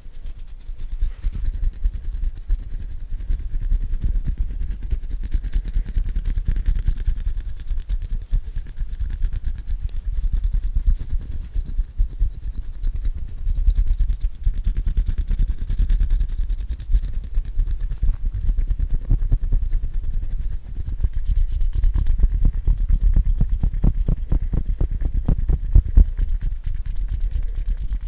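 Hands rubbing and fluttering right against a microphone: a dense, rapid patter of skin sounds with a low rumble, turning into more distinct quick taps in the last third.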